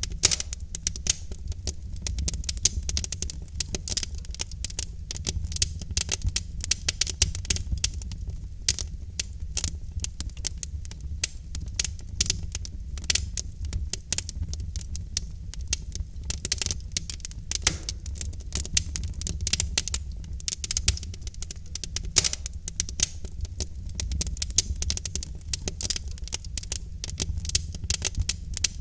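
Wood logs burning in a fireplace, crackling continually with many small irregular pops and a few louder ones, over a low steady rumble.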